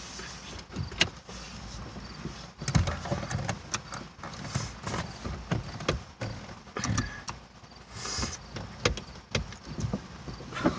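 Inside a van's cabin while driving: a low steady road rumble with scattered irregular clicks and knocks.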